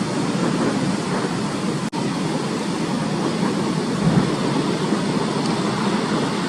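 Large typhoon-driven waves breaking against a seawall: a steady, loud wash of rough sea, with a louder surge about four seconds in. The sound drops out for an instant about two seconds in.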